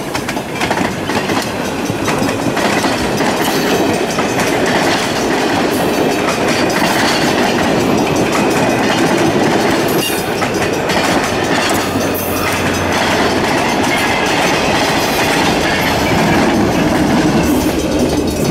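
Passenger train cars rolling past close by, their steel wheels running on the rails in a steady loud noise, with a few sharp clicks from the track.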